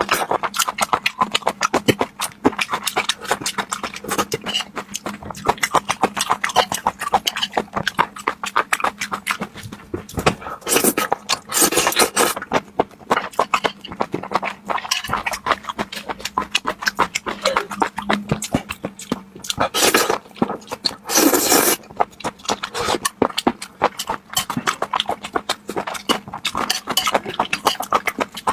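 Close-miked eating sounds from chewing raw octopus: rapid wet clicking and smacking, with a few longer, louder noisy sounds about a third of the way in and again past two-thirds.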